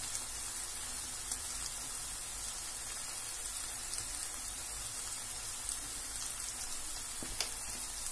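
Okra, onion and tomato masala sizzling steadily in hot oil in a frying pan, with a few faint crackles.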